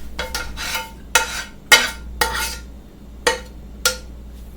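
A metal utensil clinking and scraping against a pan or dish, about seven uneven strikes, each with a short ring.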